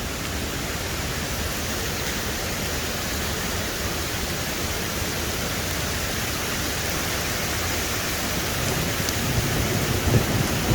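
Steady hiss of water rushing down a small waterfall, with a low rumble building near the end.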